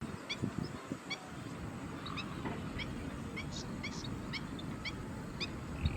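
Asian green bee-eater calling: a series of short, rising chirps, about two a second, over a low rumble.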